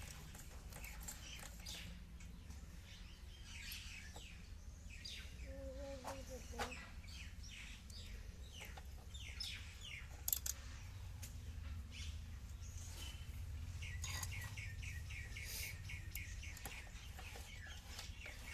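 Small birds chirping over and over in short, falling notes, with a quick run of chirps about fourteen seconds in. A low steady hum runs underneath, and there is one sharp click about ten seconds in.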